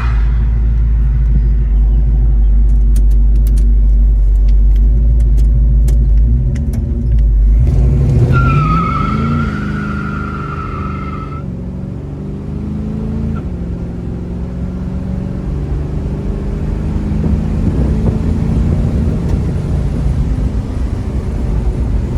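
The 1970 Chevelle SS's 396 V8 running with a steady deep rumble. About eight seconds in the engine revs up and a high, wavering squeal sounds for about three seconds. The engine then settles back to a steady run.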